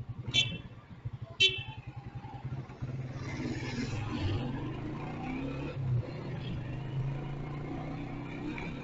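Motorcycle engine running in city traffic, with a pulsing low beat in the first seconds, then pulling away and running steadily from about three seconds in. Two short high beeps sound in the first two seconds.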